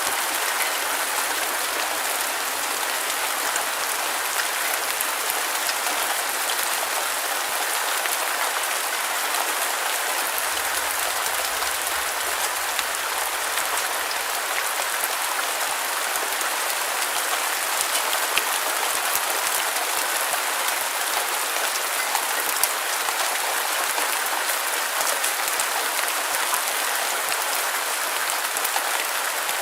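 Steady heavy rainfall, a dense even hiss with fine scattered patter of drops.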